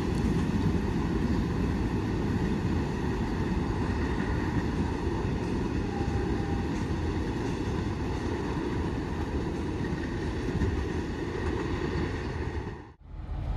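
Low, steady rumble of a long container freight train running away down the track, with a rushing noise; it cuts off suddenly about a second before the end.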